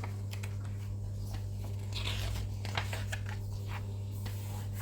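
A short rustle of plastic parts packaging being handled about two seconds in, with a few light clicks just after, over a steady low electrical hum.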